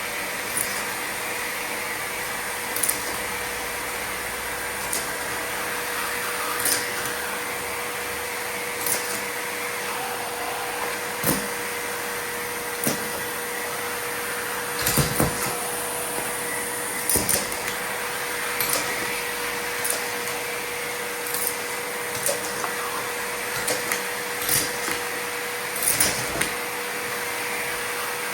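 Miele vacuum cleaner running steadily with a constant hum, and irregular sharp clicks and rattles as Lego pieces are sucked up into it.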